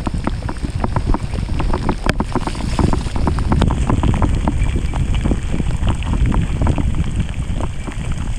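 Wind buffeting the action camera's microphone on a moving mountain bike, with a dense run of small clicks and knocks from the bike jolting over rough wet trail, and one sharper crack about two seconds in.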